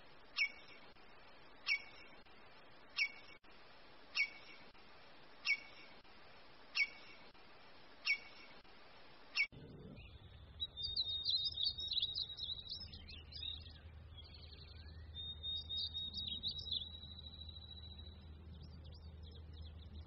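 A bird's sharp single call, repeated evenly about every second and a half, eight times. After a sudden change about halfway through, rapid twittering chirps and a long, high, held whistle from birds follow over a faint steady low hum.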